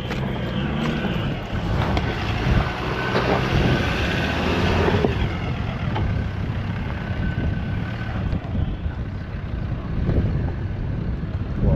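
Four-wheel-drive's engine running under load as it drives a muddy, rutted off-road track, getting louder for a few seconds about two seconds in.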